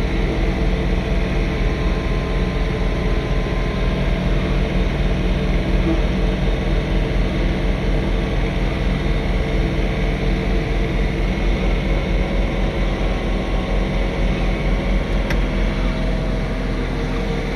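John Deere 3046R compact tractor's diesel engine running steadily under load while snow blowing, a constant low drone with a steady hum.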